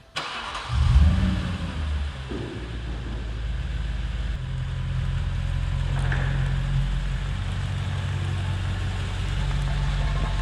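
Audi S4's 4.2-litre V8 starting up, flaring to its loudest about a second in, then settling into a steady idle.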